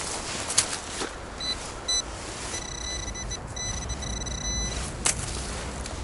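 Metal detector signalling a target: two short beeps, then a steady high tone held for about two seconds, over a low steady rumble.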